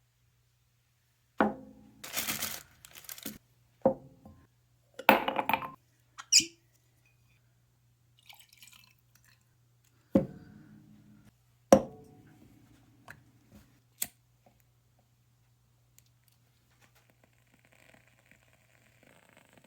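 A series of sharp knocks and clinks, several with a short ringing tail, and a couple of brief rustles, as objects are handled and set down. A steady low hum runs underneath, and a faint hiss starts near the end.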